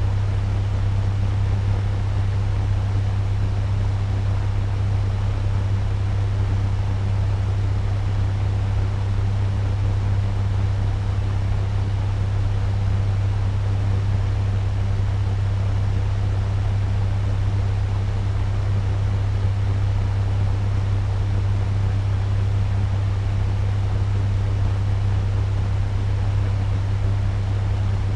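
Turbo fan running steadily at medium speed: an even rush of air over a strong low hum, with no change in level.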